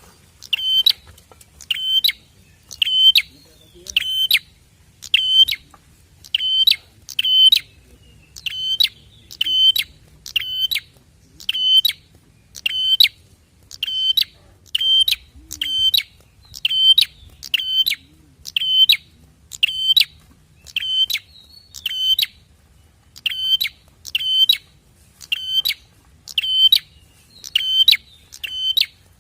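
Prinia (prenjak) calling: a short, sharp, high call repeated roughly once a second in a long, steady series, with a couple of brief pauses.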